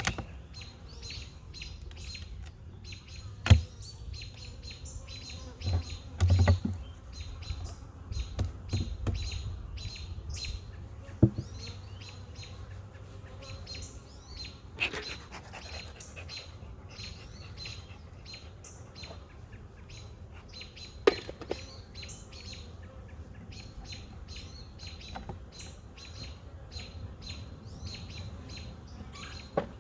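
Small birds chirping and singing steadily in rapid short notes, with a few sharp knocks from handling, the loudest about three and a half seconds in, and a brief low rumble around six to nine seconds in.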